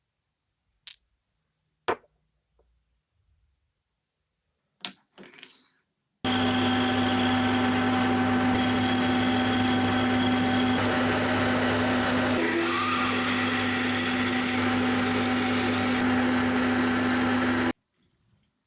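A few sharp clicks and a metallic knock, then an electric shop machine starts and runs at a steady speed with a constant hum for about eleven seconds before stopping abruptly.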